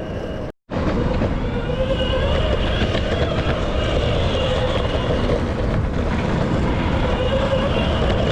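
Skateboard wheels rolling over street pavement: a steady rumble with a faint whine. The sound cuts out briefly about half a second in.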